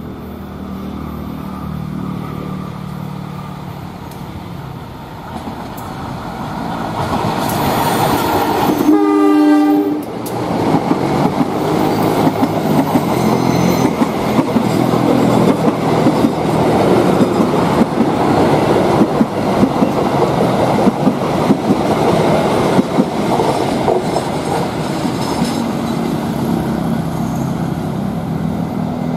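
Diesel-hauled passenger train passing. The locomotive's engine drones and grows louder as it approaches, and it sounds its horn once, for about a second, about a third of the way in. The coaches then clatter by with rapid wheel clicks over the rail joints, easing off near the end.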